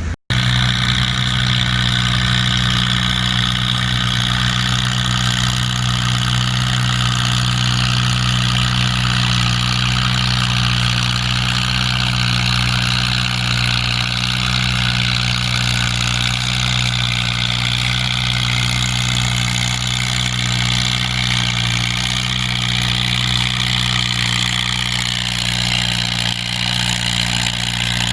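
Farm tractor engine running steadily at an even, unchanging pitch.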